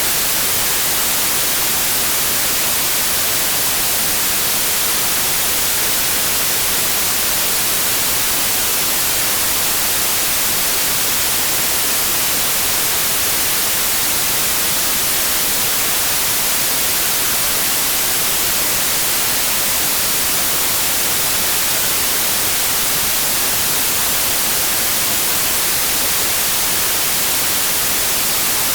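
Steady white noise: an even, unchanging hiss spread across all pitches, brightest in the high end.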